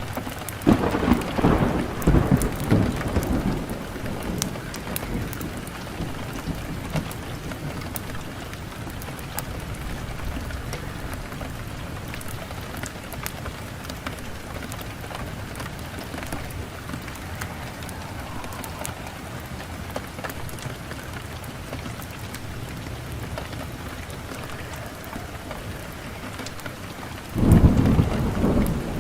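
Wood fire crackling in a fireplace: a steady hiss scattered with many sharp pops and snaps. A loud low rumbling swells up about a second in and dies away over a few seconds, then swells again near the end.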